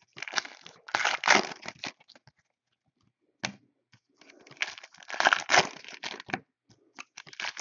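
Trading-card pack wrappers crinkling and tearing as packs are opened by hand, in two stretches with a short click between.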